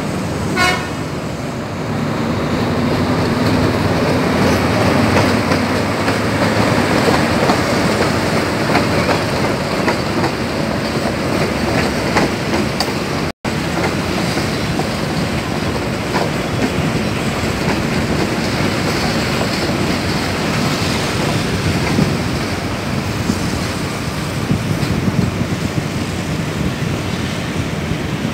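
Diesel-hauled passenger train passing close by, a steady rumble of wheels on the rails as the coaches roll past. A held horn-like tone sounds in the first few seconds.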